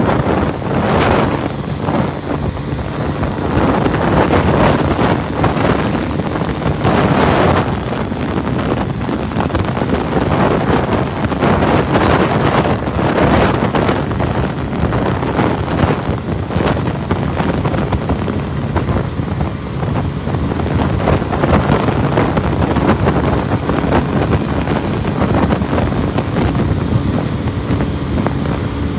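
Heavy wind buffeting the microphone of a Suzuki 150cc motorcycle at motorway speed, swelling and easing every few seconds, with the single-cylinder engine running steadily underneath.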